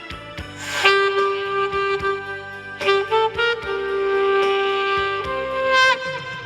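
Saxophone playing a slow melody of long held notes over an accompaniment track with a steady beat, with a downward bend on a note near the end.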